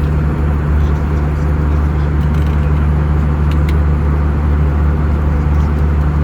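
Steady cabin noise of an Airbus A320 at cruise: a constant low engine drone under the rush of airflow, with no change in level.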